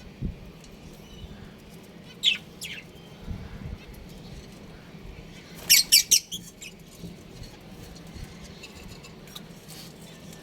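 Budgerigars chirping: two short calls about two seconds in, then a quick run of louder, sharper chirps around six seconds.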